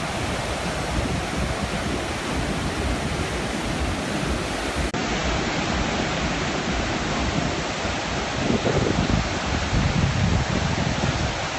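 Sea surf rushing steadily, mixed with wind rumbling on the microphone, with a brief dropout about five seconds in.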